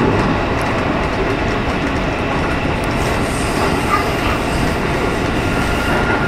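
JR West 207 series electric commuter train running at speed, heard from inside the driver's cab: a steady rumble of wheels on rail at an even loudness.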